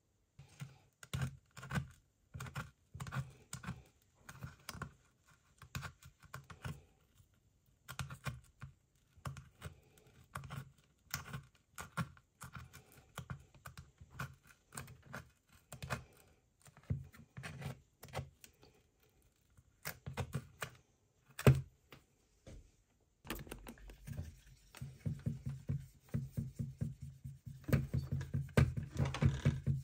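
Irregular clicks and taps of small hard parts and tools being handled, with short pauses between runs. Near the end, steady background music comes in under the tapping.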